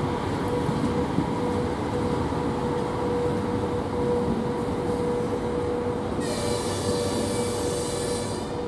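VL80S electric locomotive running, a steady rumble with a steady hum through it. Near the end a high squeal sounds for about two seconds.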